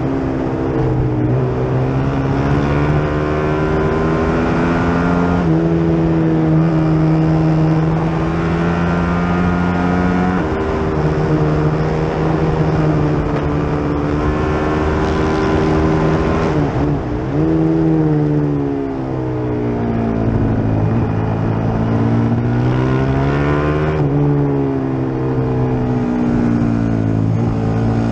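Onboard sound of the FR450GP's single-cylinder race engine at racing speed. It pulls through the gears with quick upshifts early on, drops its revs through downshifts about two-thirds of the way in, then accelerates again.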